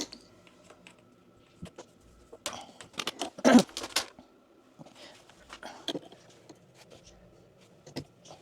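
Scattered clicks, taps and rustles of hands handling things, with the loudest cluster about three and a half seconds in.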